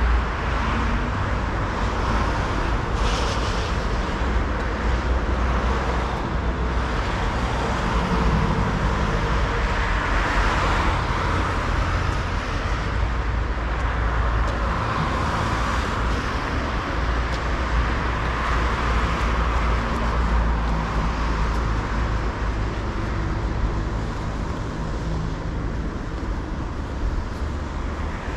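Steady city road traffic, cars passing, with a deep low rumble underneath.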